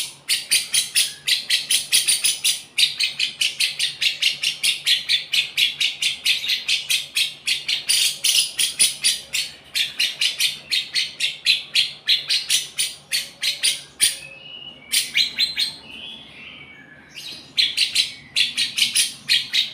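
Lovebird singing a long, rapid string of high chirps, about five a second, in the song style that Indonesian keepers call 'rasa cucak jenggot', meaning it sounds like a grey-cheeked bulbul. The chirping breaks twice in the latter part for softer, lower warbled notes, then resumes.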